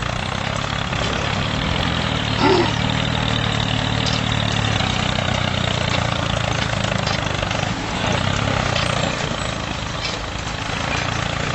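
Homemade mini tractor's small motor running steadily, with a brief, louder rising sound about two and a half seconds in.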